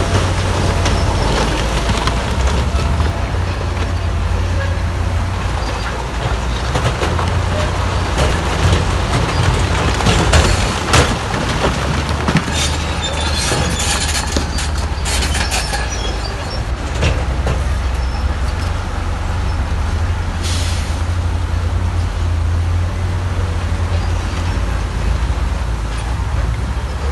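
Heavy diesel earthmoving machinery running under load with a steady low rumble. Several short hissing bursts come around the middle and one more later on.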